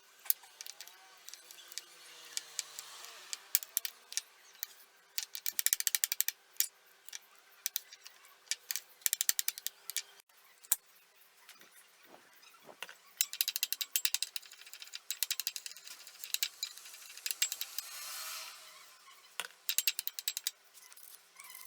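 Runs of rapid, sharp mechanical clicking, like a ratchet, starting and stopping several times over a faint steady hum.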